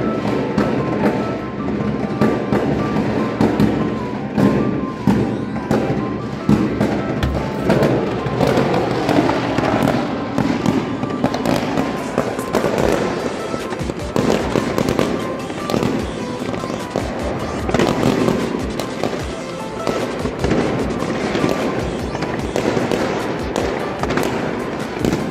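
Fireworks going off in quick succession, a dense run of bangs and crackles, with music underneath.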